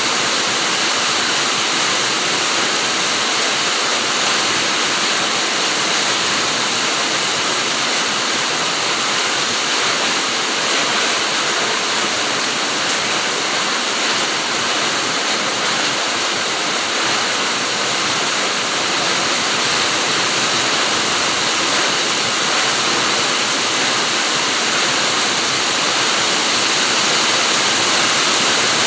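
Rain falling steadily in a fruit garden, a dense, even hiss with no breaks or single drops standing out.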